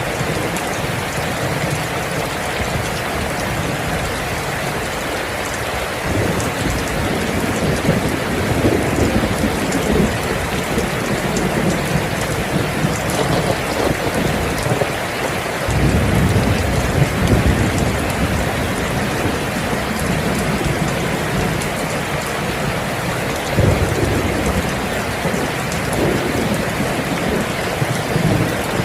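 Steady heavy rain with rumbles of thunder rolling in several times, one starting abruptly about halfway through.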